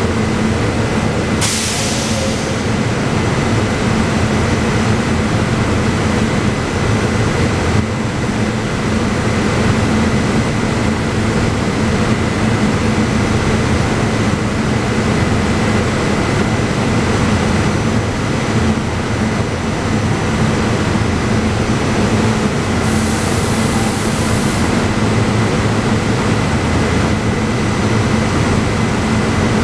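SEPTA Silverliner IV electric multiple-unit train at the platform, its onboard equipment giving a steady loud hum with a thin high whine. Two short bursts of high hiss come about two seconds in and again near the end.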